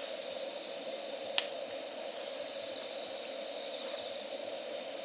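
Insects, likely crickets, chirring as a steady high-pitched tone, with one sharp crackle from the dying campfire about one and a half seconds in.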